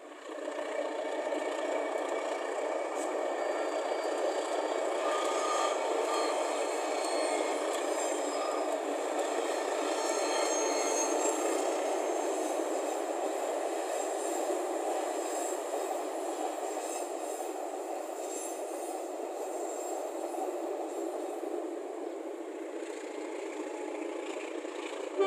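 Diesel-hauled passenger train crossing a steel truss railway bridge: a steady rattle and clatter of wheels on the rails. It starts as the locomotive comes onto the bridge and eases a little near the end as the last coaches pass.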